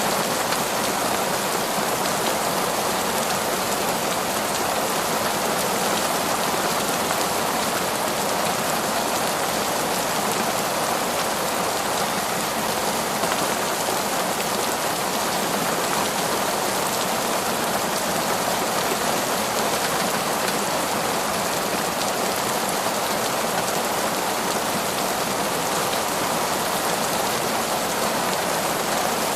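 Heavy torrential rain falling steadily as a dense, even hiss.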